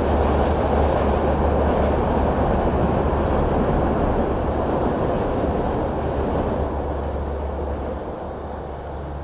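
Passenger train running across a steel truss viaduct with a steady rumble, fading away over the last few seconds as it moves off into the distance.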